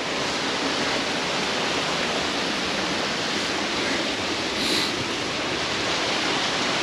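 Mountain stream rushing steadily over rocks, an even continuous rush of water.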